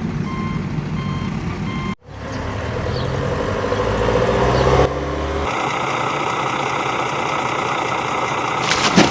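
A vehicle reversing beeper sounding a string of evenly repeated beeps. After a sudden break about two seconds in, a truck engine rises to a rumble and settles into a steady run. There is a short sharp click near the end.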